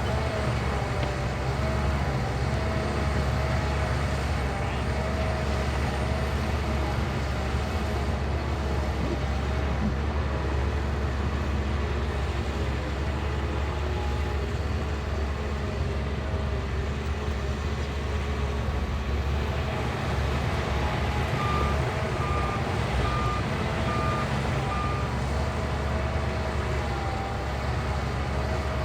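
Shantui bulldozer's diesel engine running steadily under work. A reversing alarm beeps five times, evenly spaced, about three-quarters of the way through.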